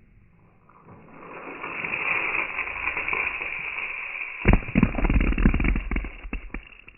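A mini volcano experiment erupting: a hiss builds up and holds for a few seconds. Then comes a burst of loud crackling pops and heavy thumps that dies away into scattered crackles.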